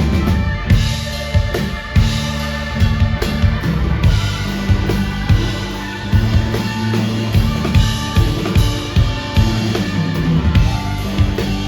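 Live rock band playing an instrumental passage: a drum kit with steady bass drum and snare hits drives under sustained bass notes, guitar and keyboards.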